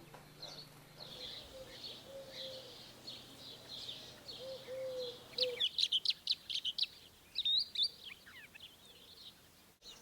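Songbird calls and song: a run of short high notes repeated over a faint lower warble, then, after an abrupt change, a quick burst of loud, sharp high chirps and a single hooked whistle.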